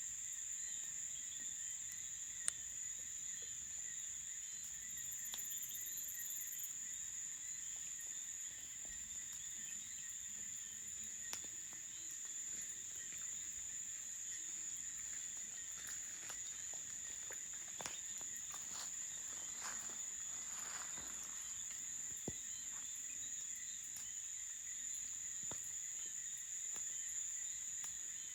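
Crickets chirring in a steady night chorus, one constant high-pitched trill with fainter lower tones beneath it, broken by scattered sharp clicks, which come thicker about halfway through.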